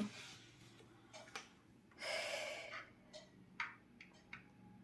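Light handling clicks and taps from a robot vacuum's plastic charging dock and its power cord being fitted at the plug point, with a short hiss about two seconds in.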